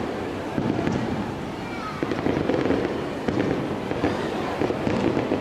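3-inch aerial firework shells bursting in quick succession: a dense run of pops and crackles that swells in waves.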